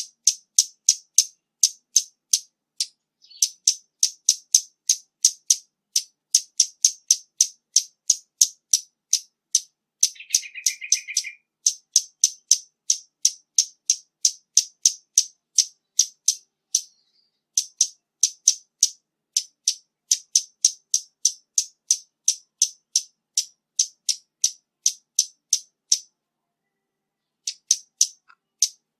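Scarlet-backed flowerpecker calling: a sharp, high tick repeated steadily about three times a second, with a short break near the end. A brief lower, buzzier chatter comes in around a third of the way through.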